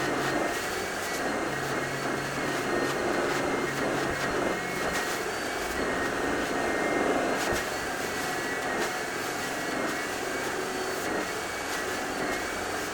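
Carpet-cleaning machine running steadily: a motor whine over a constant rushing noise, with a low hum that drops away about five seconds in.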